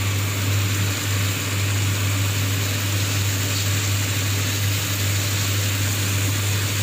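A machine running steadily: a constant low hum with an even rushing hiss over it, without change.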